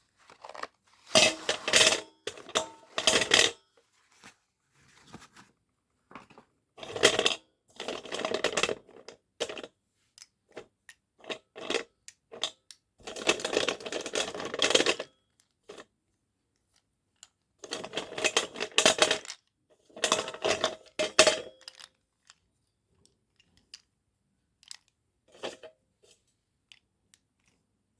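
Dry Cat-brand cubical slate pencils being rubbed and clinked against one another, giving a scraping, rattling clatter in bouts of one to two seconds with pauses between, and a few light ticks near the end.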